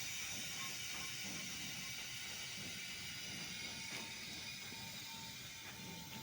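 Train rolling along the track, a steady rushing noise that slowly fades, with a faint thin whine joining about halfway through.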